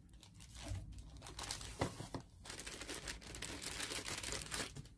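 Plastic packaging crinkling and rustling in quick irregular crackles, busiest in the second half, as a small accessory is unwrapped by hand.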